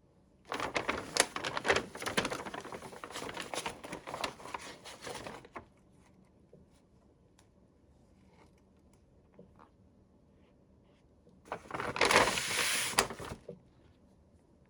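Toy packaging being handled and opened, a dense run of crackling and clicking for about five seconds, then a shorter burst of the same near the end.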